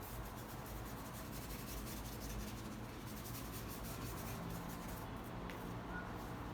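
A bristle paintbrush being worked back and forth over the painting surface, a quick run of soft scratchy rubbing strokes.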